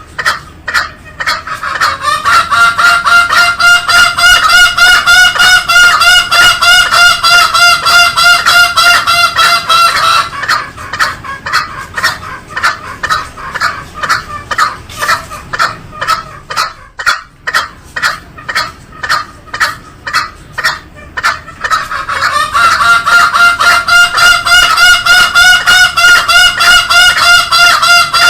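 Green junglefowl calling loudly in rapid repeated pulses, about three a second. A long steady pitched call runs over them for about eight seconds, stops, and comes back near the end.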